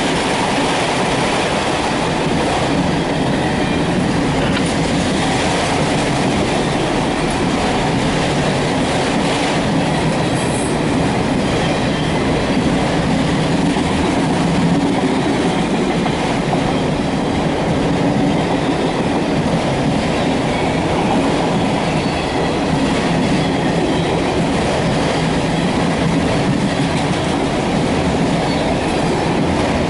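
Empty autorack freight cars rolling past, with steady wheel-on-rail noise and clickety-clack from the rail joints.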